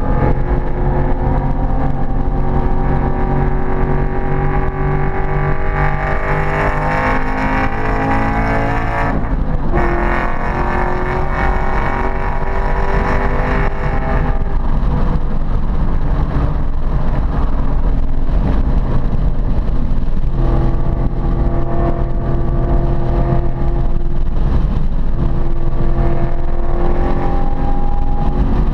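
Ford Mustang Boss 302's 5.0-litre V8 under hard acceleration, its pitch climbing for about nine seconds before a sudden drop at a gearshift. It then climbs again, settles to a lower, steadier note for several seconds, and rises once more near the end.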